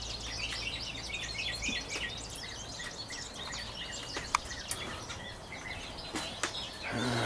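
Wild birds chirping and twittering, many quick short calls, thickest in the first two seconds and thinning out after. A single sharp click a little past four seconds in.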